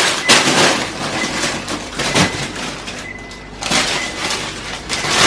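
Rustling and knocking of food packages being handled and put into a fridge. A faint high tone sounds briefly a few times.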